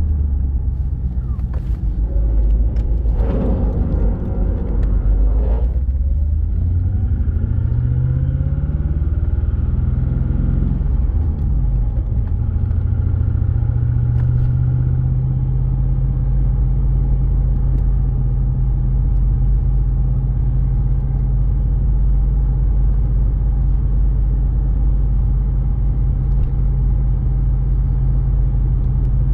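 Twin-turbo LS V8 engine in a BMW E36 running under way, its pitch rising and falling in the first half as the revs change, then holding a steady low drone.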